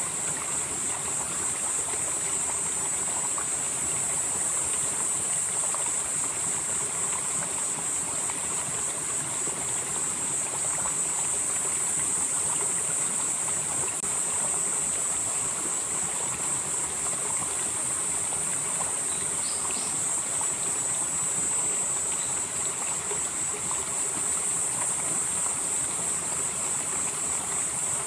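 Valley stream flowing steadily, with a high, shimmering insect chorus over it that swells and eases every several seconds.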